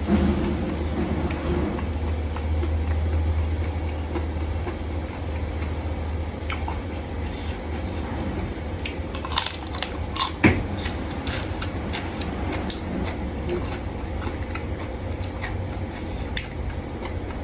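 Close-up chewing and biting of a spicy seafood salad with squid and crisp salad greens: scattered wet, crackly clicks, a few louder crunches about ten seconds in, over a steady low hum.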